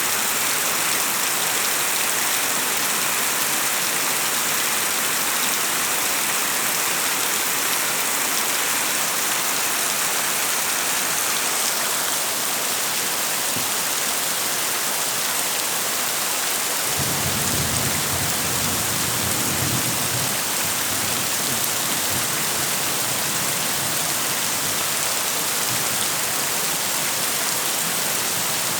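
Heavy rain falling steadily. A low rumble joins in a little past halfway.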